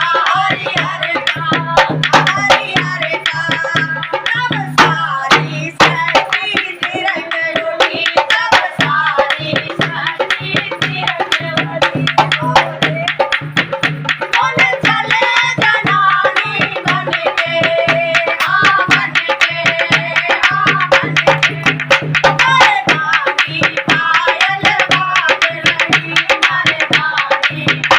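Devotional bhajan music: a fast, driving Indian hand-drum rhythm with many quick strikes, over a steady low drone and singing.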